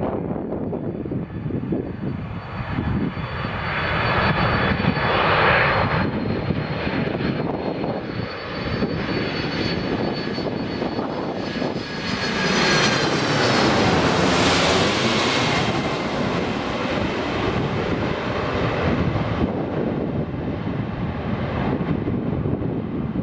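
Boeing 747-400's four turbofan engines passing during its landing: a steady jet roar with a high whine. The sound swells to its loudest about halfway through and then eases off.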